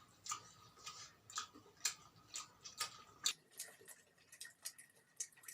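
Chewing close to the microphone: faint, wet mouth clicks and lip smacks, about two a second.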